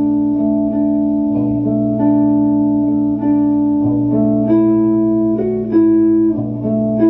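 Guitar playing the quieter chorus part of a song: sustained notes ringing over a held low note, the upper notes changing about every second.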